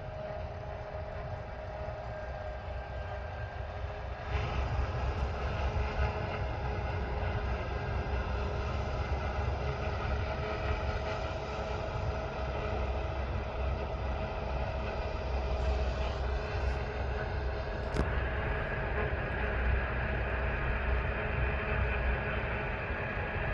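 Heavy harvest machinery running in a wheat field: a low diesel drone with steady whining tones from the combines and tractors. It gets louder about four seconds in.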